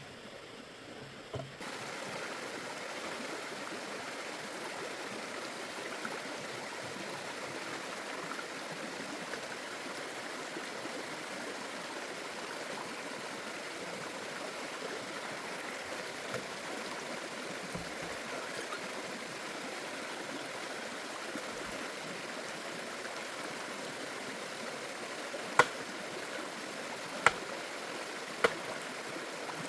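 Steady rush of flowing stream water, coming in a second or two in. Near the end, three sharp knocks stand out as the loudest sounds.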